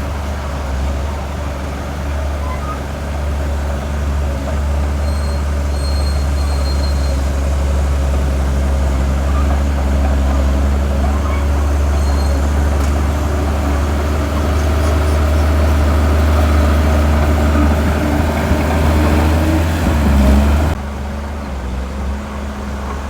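Heavy diesel earthmoving machinery running with a steady, loud low drone. Near the end the sound drops suddenly to a quieter level.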